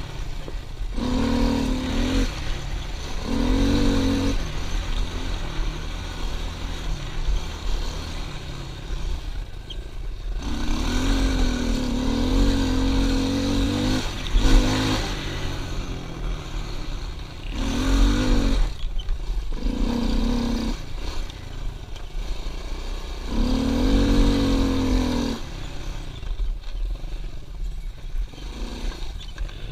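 Pit bike engine being ridden, coming on throttle in about six stretches, the longest a few seconds long, and dropping back between them, with a rough low rumble throughout.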